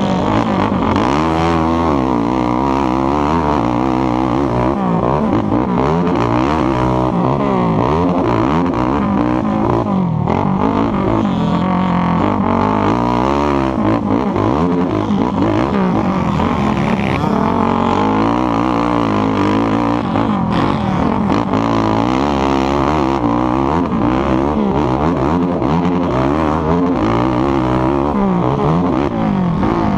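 ATV engine running hard in a motocross race, its revs rising and falling constantly as it accelerates and backs off.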